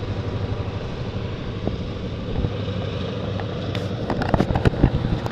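Freight train running across a high railroad bridge: a steady low rumble, with a quick run of clanks and knocks near the end.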